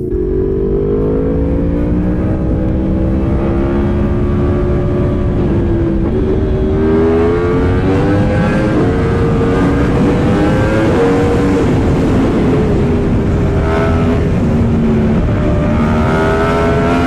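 Yamaha R1M's crossplane inline-four engine running under way, heard from the rider's position. Its pitch rises and falls gently with the throttle, with a few small steps and dips.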